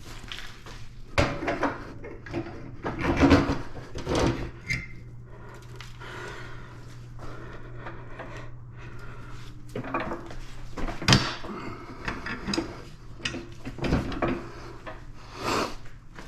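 Tools and bike parts being handled during hands-on teardown of a dirt bike: a string of irregular knocks, clunks and scrapes, with the sharpest knock about eleven seconds in.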